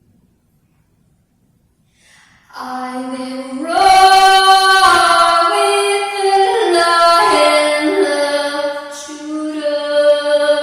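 A woman singing unaccompanied in long held notes that step up and down in pitch, starting about two and a half seconds in.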